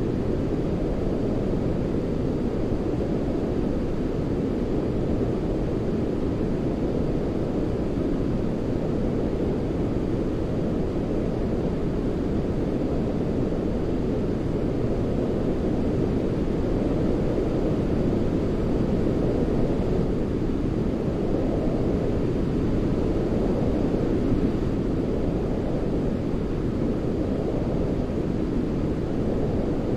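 Steady, deep rushing noise of the kind played as sleep 'white noise', muffled rather than hissy and close to brown noise, with slow, gentle swells in level.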